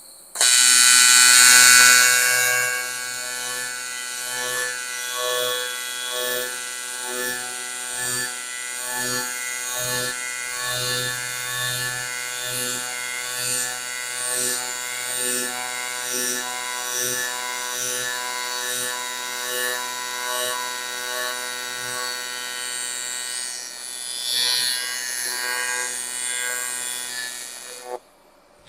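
AC TIG welding arc on 6061 aluminium. It strikes sharply and is loudest for its first couple of seconds, then settles into a steady electric buzz that swells a little more than once a second. The arc cuts off suddenly near the end.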